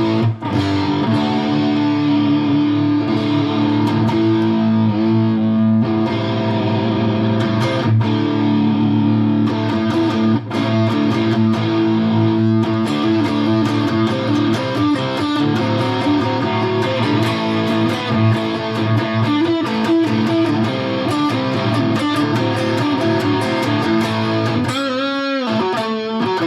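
Electric guitar, a Fender Player Stratocaster, played through the Fender Mustang GTX100 modelling amp on its "Silver Drive" preset, with some distortion: continuous chords and single-note lines, with a wavering bent note near the end.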